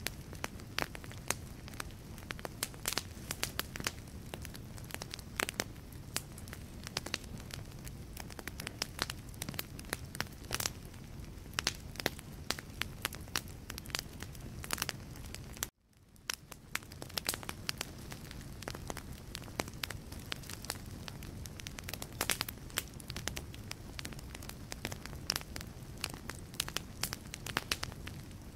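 Wood fire burning in a fireplace, its logs crackling with dense, irregular sharp pops and snaps over a low rumble of flame. About halfway through the sound cuts out abruptly and fades back in over about a second.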